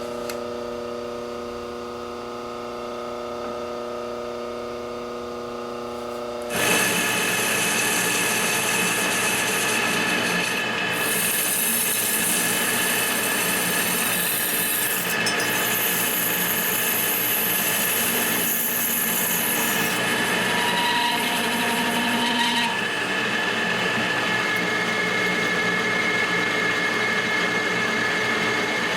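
Metal lathe running with a steady motor whine, then about six seconds in the turning tool starts cutting into the spinning 6061 aluminum bar and a loud, steady cutting hiss takes over. The cut roughs the bar down toward a sphere.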